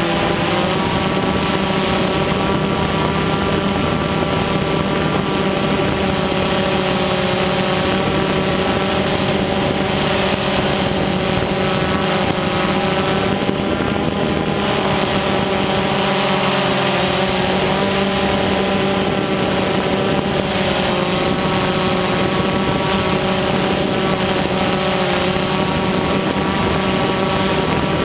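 DJI Phantom quadcopter's motors and propellers buzzing in flight, several whining tones drifting up and down in pitch as the motors speed up and slow down.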